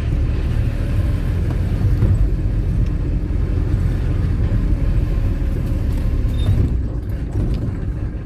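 Car driving along: a steady low rumble of engine and road noise, easing off slightly near the end.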